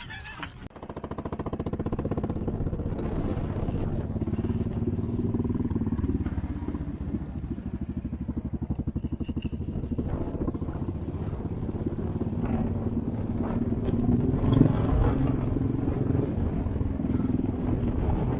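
Royal Enfield motorcycle engine running with an even, rapid firing beat; the sound comes in suddenly about a second in and grows a little louder around fifteen seconds in.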